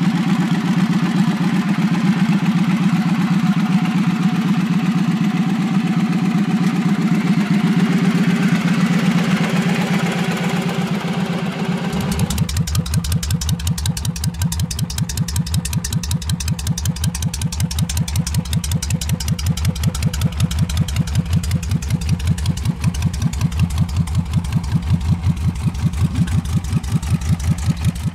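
Victory Vegas Jackpot V-twin motorcycle exhaust idling with an even, loping pulse. About twelve seconds in, the sound changes abruptly to a deeper idle with more distinct, separate exhaust pulses.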